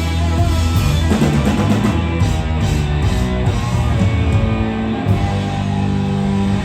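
Live blues-rock band playing an instrumental passage: electric guitar over bass and drums, loud and steady.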